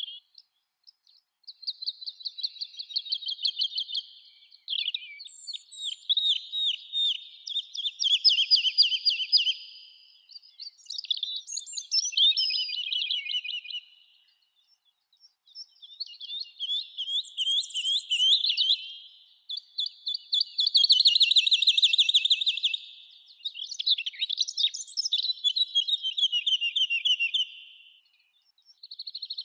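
Songbirds singing in a series of rapid trilled phrases, each a few seconds long with short pauses between, with thinner, higher notes laid over some phrases.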